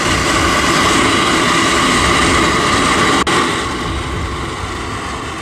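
Gas forge burner with its blower running, a steady rushing noise. It breaks off for an instant about three seconds in and comes back a little quieter.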